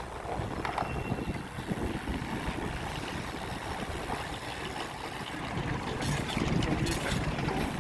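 Wind buffeting the microphone in a steady low rumble, with a few light clicks and rattles late on.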